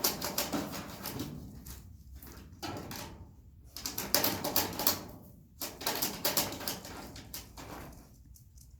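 Dogs scuffling, making four bursts of rapid clicking and scratching noise, each a second or two long.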